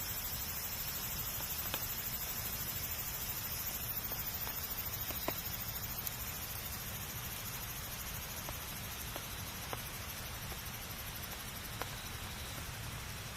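Wood fire crackling: a steady low hiss and rumble of burning with sharp single pops every second or two.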